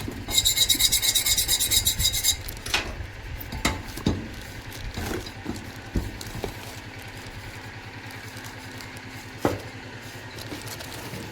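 Quick, repeated rasping strokes of a hand tool worked against a part for about the first two seconds, then it stops. After that come scattered sharp clicks and knocks of tools over a steady low hum.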